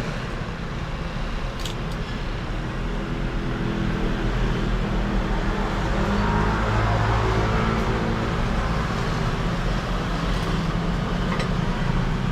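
Steady motor hum like road traffic, growing louder around the middle, with a couple of faint clicks.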